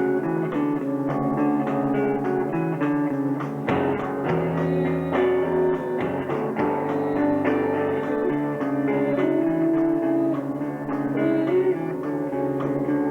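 A rock band playing live, with guitars and bass guitar. It is recorded through a camcorder's built-in microphone, so the sound is dull, with nothing in the high end.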